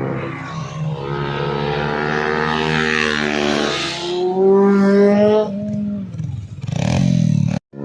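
Motorcycle engine revving: it runs steadily, climbs sharply in pitch about four seconds in, then drops away. It gives another short rev near the end before cutting off suddenly.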